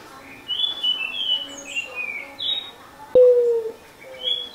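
Small birds chirping, a quick run of short high notes over the first couple of seconds. About three seconds in a sharp click is followed by a short, loud whine, the loudest sound here, with a fainter whine near the end.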